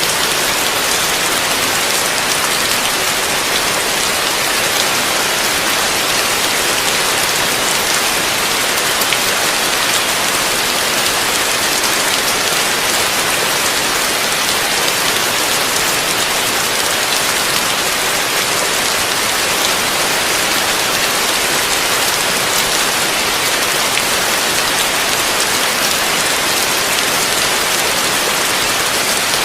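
Heavy rain falling steadily, a dense, even hiss of drops hitting a surface.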